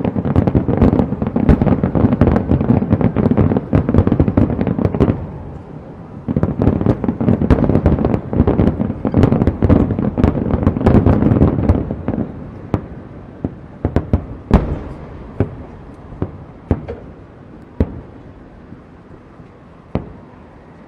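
Fireworks display: a dense, rapid run of shell bursts banging one over another, with a short lull about five seconds in. A second dense run follows, then single booms a second or two apart, each echoing, through the last third.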